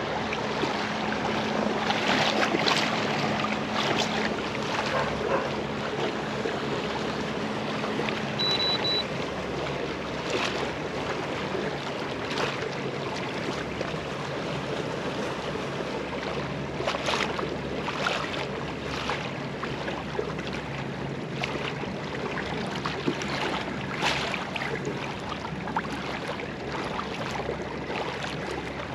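Water sloshing and splashing around a kayak, with wind on the microphone. A steady low hum runs under it for about the first eight seconds, then stops.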